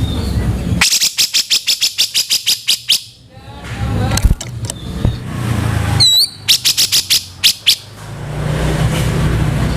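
Cucak jenggot (grey-cheeked bulbul) giving harsh, rapid chattering calls: a run of about nine rasping notes a second for two seconds, a brief whistled note, then a shorter run of the same notes. A steady low rumble lies underneath.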